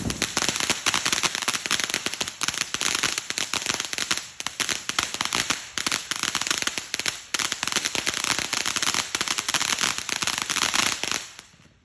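Firecrackers going off in a rapid, continuous chain of sharp pops that lasts about eleven seconds, with brief lulls near four and seven seconds, then dies away.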